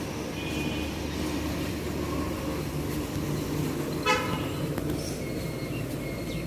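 Steady road-traffic rumble with a short, sharp vehicle horn toot about four seconds in.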